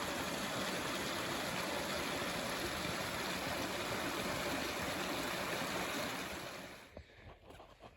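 Steady rush of running water, even and unbroken, fading away near the end.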